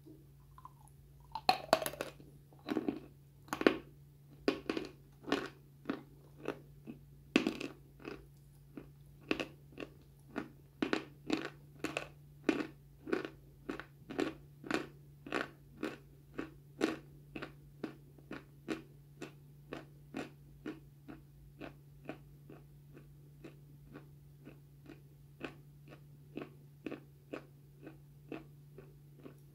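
Crunching as a dry, crumbly white block is bitten and chewed. There are a few loud, sharp bites in the first several seconds, then steady chewing at about two crunches a second that gradually gets softer.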